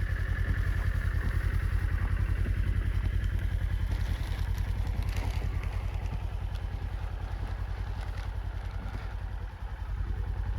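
Farm buggy engine running at a steady, low pulsing beat, as at idle or slow travel.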